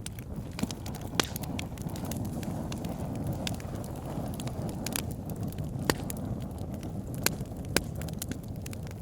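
Wood fire burning in a fireplace: a steady low rumble of flames with irregular sharp crackles and pops, several louder pops standing out.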